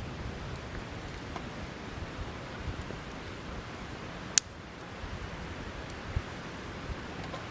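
Wood campfire burning with a steady hiss and scattered small crackles, and one sharp loud pop a little past halfway.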